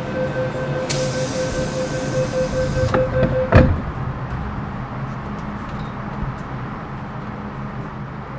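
MTR M-Train door-closing warning tone sounding steadily for about three and a half seconds, with a hiss partway through. The sliding doors shut with a thump, leaving the train's steady low hum.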